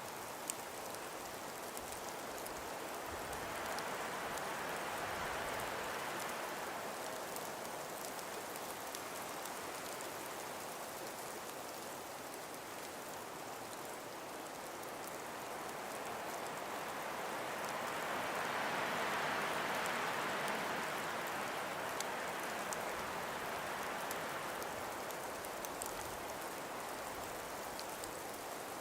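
Calm breeze through frost- and ice-covered forest trees: a steady hiss that swells and eases twice, with faint scattered ticks.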